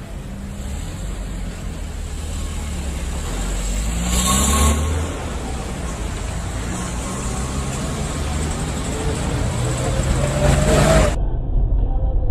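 Car driving, its engine and tyre noise heard through a dashcam, with a brief louder rushing noise about four seconds in. The sound changes abruptly near the end.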